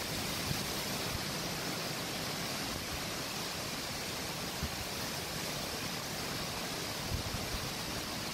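Strong wind blowing in gusts of a thunderstorm, a steady rushing noise with no rain yet.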